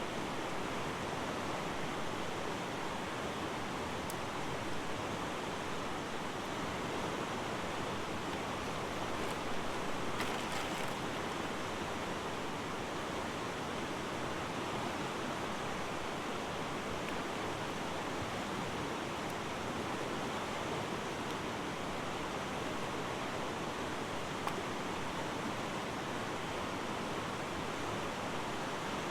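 River water rushing steadily, an even unbroken wash with a few faint ticks over it.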